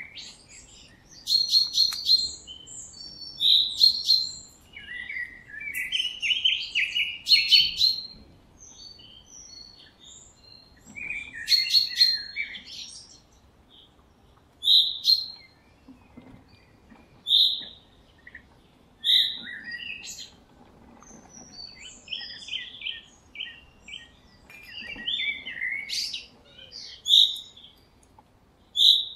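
Wild birds chirping and singing: short high calls and song phrases, some repeated every two to three seconds.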